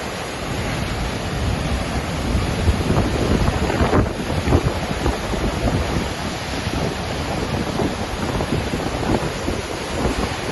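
Waterfall's steady roar of falling water, with wind buffeting the microphone.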